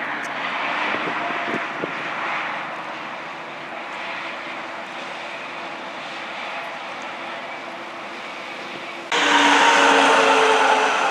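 Road traffic with heavy trucks driving past, a steady engine and tyre drone. About nine seconds in, a much louder engine with a steady pitched hum cuts in abruptly.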